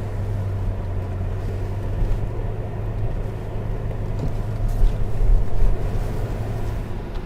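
Aston Martin DBX's AMG-built 4.0-litre twin-turbo V8 running as the SUV drives off, exhaust valves open in Sport Plus mode. A steady low engine hum that swells slightly about five seconds in.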